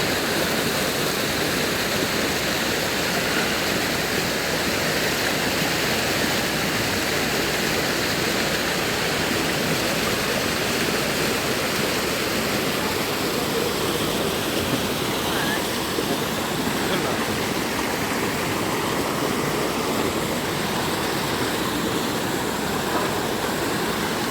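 Rushing water of a mountain valley stream, a loud, steady, unbroken noise.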